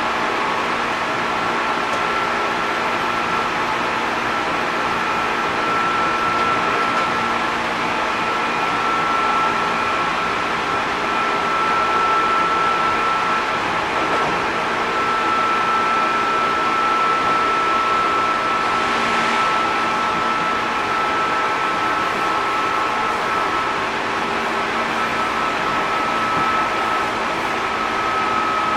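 Inside a JR East 205 series 600-subseries electric train: steady running noise of the car on the rails, with a steady whine from the traction motors and gears that drops slightly in pitch near the end.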